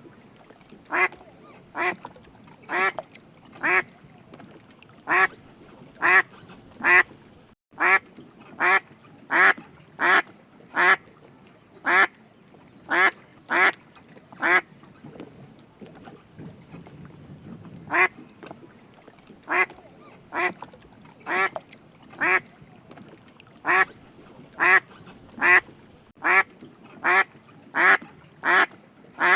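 A duck quacking over and over, short loud quacks about one a second, with a pause of a couple of seconds midway before the quacking resumes.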